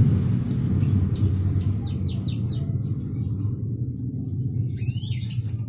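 Small birds chirping: a quick run of short high chirps, about three a second, over the first two to three seconds, then a few rising whistled calls near the end. Underneath runs a low engine rumble, loudest at the start and fading away.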